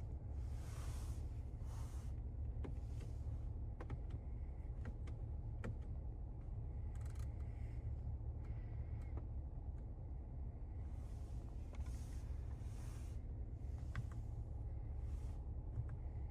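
Cabin noise inside a moving Cadillac Escalade ESV: a steady low road and drivetrain rumble, with a few faint clicks and brief swells of hiss.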